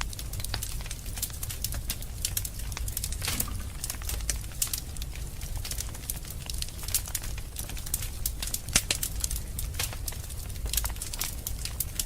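Wood fire crackling in a fireplace: frequent irregular pops and snaps over a steady low rumble, with one sharper snap about three-quarters of the way through.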